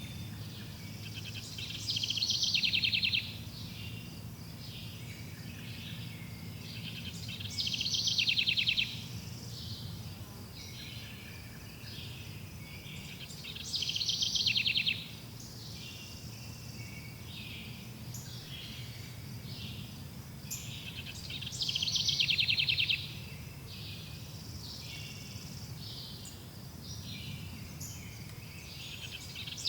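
A songbird repeating a fast trilled phrase about every six seconds, four times, over softer chirps from other birds and a steady low hum.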